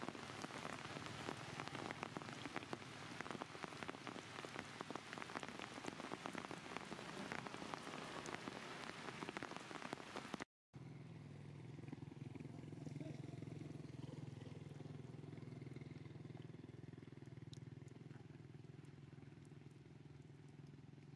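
Rain falling steadily on the ground, a dense patter of drops. About halfway through it cuts off abruptly, and a steady low hum follows with a few faint ticks.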